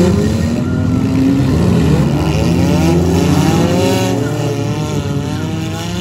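Several demolition derby compact cars' engines revving at once, their pitches rising and falling independently and overlapping.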